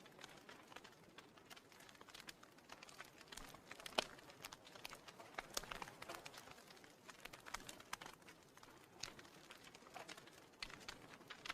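Wood fire crackling faintly: an irregular scatter of small pops and snaps, with one sharper pop about four seconds in.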